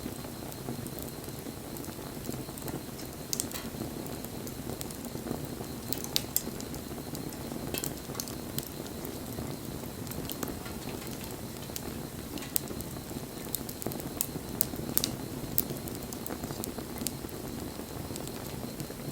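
Wood bonfire burning: a steady low rush of flame with sharp crackles and pops scattered irregularly through it.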